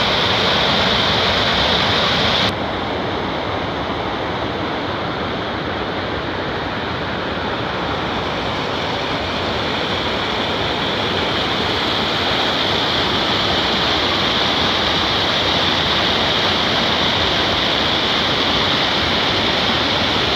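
Steady rushing sound of running water, dropping a little in loudness about two and a half seconds in and then continuing evenly.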